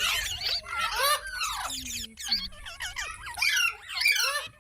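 Indian ringneck parakeet chattering: a continuous run of quick, sharply rising and falling chirps and squeaks.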